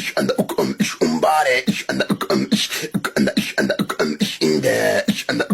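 Looped vocal music track: a fast beat of mouth-made clicks and vocal sounds, with short sliding sung notes about a second in and again near the end.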